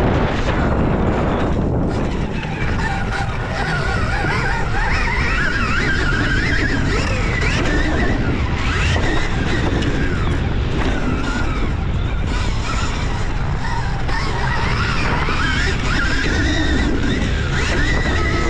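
Stark Varg electric dirt bike being ridden hard: a motor whine that rises and falls with the throttle over heavy wind rumble on the microphone.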